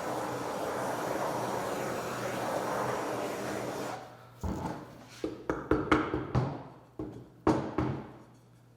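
A heat torch blowing with a steady rushing hiss, used to heat the edges of a wood-grain roof covering; it cuts off about four seconds in. Then a string of sharp separate knocks with brief ringing.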